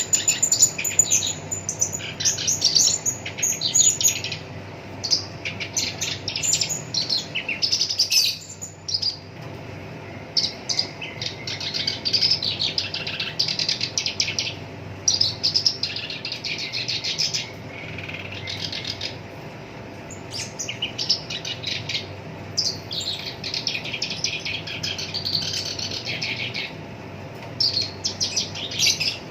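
Black-browed reed warbler (Acrocephalus bistrigiceps) singing: rapid strings of short notes in phrases of one to three seconds, separated by brief pauses.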